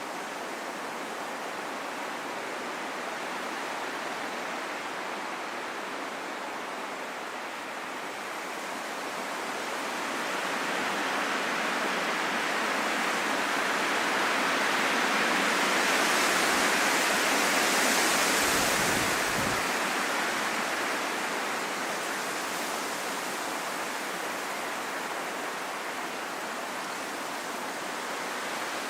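Steady rain falling in a forest, an even hiss with no distinct drops or other events. It swells louder about a third of the way in, peaks past the middle, then eases back.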